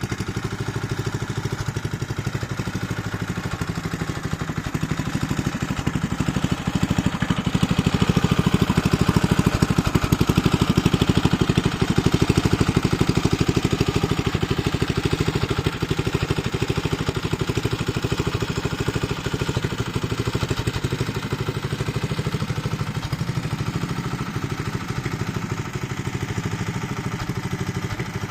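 Honda F600 tiller's 5.5 HP single-cylinder engine running steadily after a rebuild, driving a sickle-bar scythe attachment, with a clatter over the engine note. It gets somewhat louder for several seconds in the middle.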